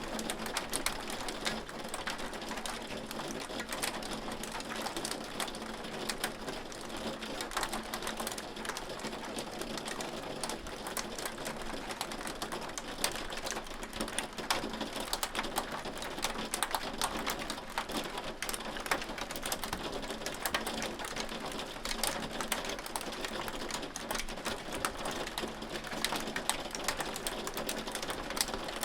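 Hail falling steadily: a dense, unbroken patter of small hard ticks and clicks over a hiss of falling ice and water.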